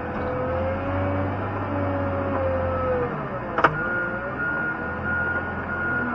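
Wheel loader running under load while pushing snow, its engine pitch rising and falling, with one sharp metallic bang about halfway through.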